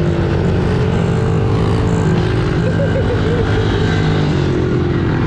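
Pit bike engine running at a fairly steady speed while riding, the pitch shifting a little with small changes in throttle.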